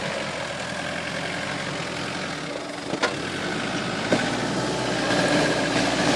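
Off-road 4x4's engine running at low revs as the vehicle creeps slowly forward, with two short knocks about three and four seconds in and the engine getting a little louder near the end.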